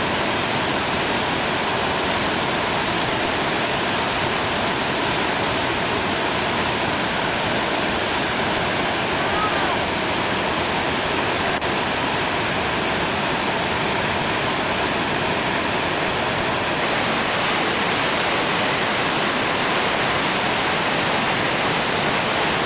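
Whitewater rapids on a river rushing steadily. The sound turns a little louder and brighter about three-quarters of the way through.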